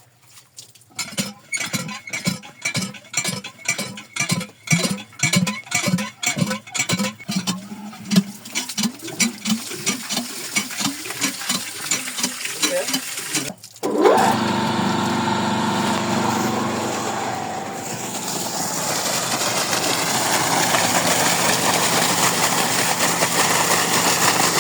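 A rhythmic pulsing, about two pulses a second and speeding up, gives way about halfway through to a GEC 5-horsepower electric water pump motor switching on and running steadily. A few seconds later a rushing of water builds as the pump starts delivering.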